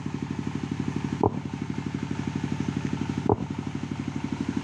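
Diesel engine driving a generator set, running with a steady fast chug. Twice, about two seconds apart, a sharp click cuts through: the test pulse of a phase checker played through the speakers.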